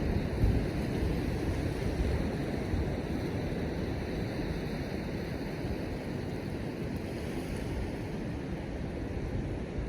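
Steady surf and wind noise on a beach in a snowstorm, with a few low gusts buffeting the microphone in the first couple of seconds.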